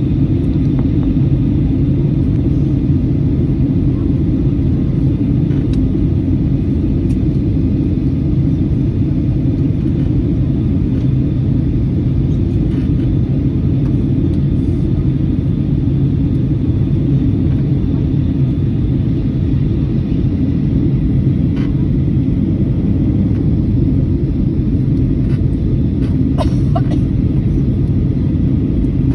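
Steady drone of a jet airliner cabin in flight: engine and airflow noise, a constant deep rumble with a low hum. A brief faint higher sound cuts in near the end.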